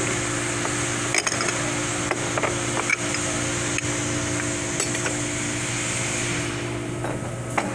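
Light metal clinks and knocks of transmission parts being handled, a handful of separate clicks, over a steady machine hum and hiss; the hiss fades near the end.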